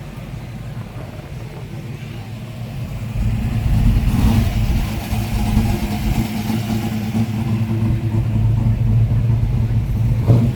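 A car engine running steadily at low revs, getting louder about three seconds in and then holding.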